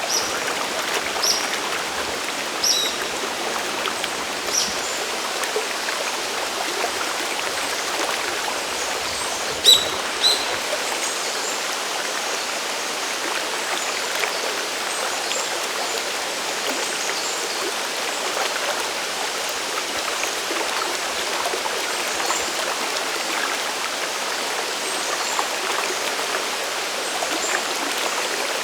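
Mountain waterfall and stream water rushing steadily, an even hiss of falling and flowing water. A few short high ticks stand out above it, the loudest about ten seconds in.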